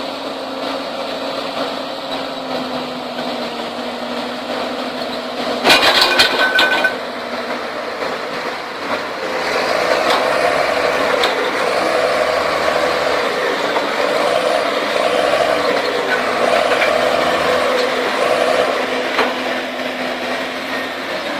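Heavy diesel engines of earthmoving machines (an excavator and a crawler bulldozer) running steadily during a mud recovery, growing louder about ten seconds in as they work under load. About six seconds in there is a sudden loud, high-pitched burst lasting about a second.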